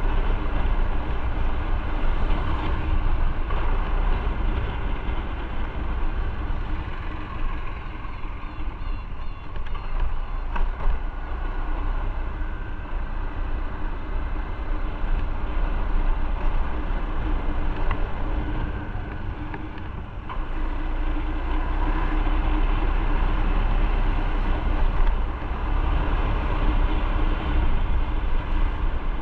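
Motorcycle running on the road while riding, a steady engine note over a heavy low rumble, easing off briefly about two-thirds of the way through.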